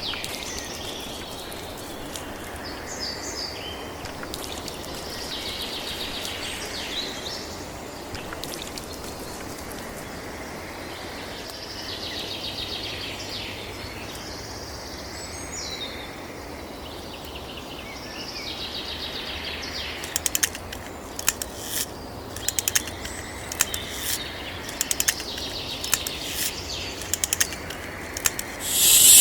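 Birds chirping now and then over steady outdoor background noise; about two-thirds of the way through, a run of irregular sharp clicks begins.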